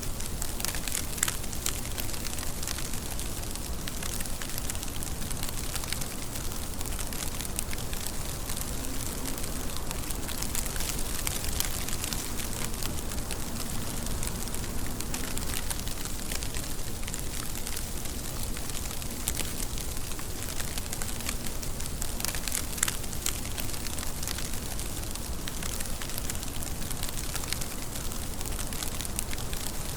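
Steady rain: a dense, even hiss sprinkled with many small drop ticks.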